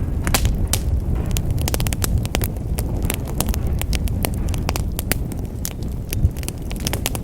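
Fire burning in a fireplace, crackling and popping with many sharp irregular snaps over a steady low rumble of the flames.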